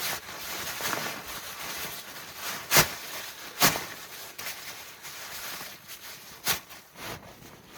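A handful of sharp knocks at uneven intervals, the two loudest close together about three seconds in, over a faint steady hiss.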